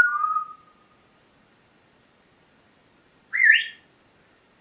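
Pet parrot whistling: a falling whistle at the start that fades within a second, then a short, louder call that rises and bends about three and a half seconds in.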